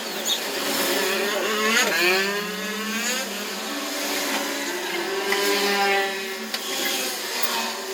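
A motor running steadily, its pitch sliding up and down several times.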